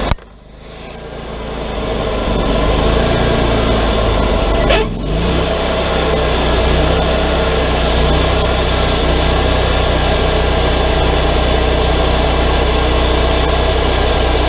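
Wood-Mizer LT40 portable band sawmill running. The sound drops off abruptly at the start and builds back up over about three seconds. After a brief break about five seconds in, it runs steadily and loudly.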